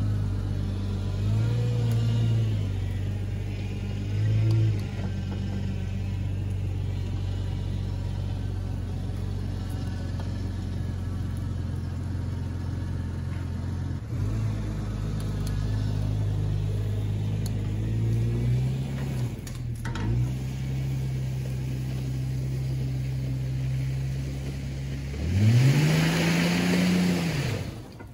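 Jeep Cherokee engine running while it pulls a boat trailer, with a few short revs. Near the end it revs hard, rising and then falling, as the tyres spin and throw up mud with a loud spraying hiss.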